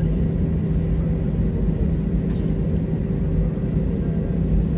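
Steady low rumble and hum inside the cabin of an Airbus A321 after landing, its engines and air conditioning running while the aircraft taxis or waits at the stand.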